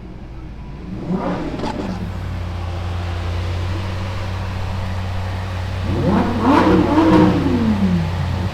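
Lamborghini sports-car engine idling with a steady low note. It is blipped briefly about a second in, then revved harder near the end, the pitch climbing and falling back.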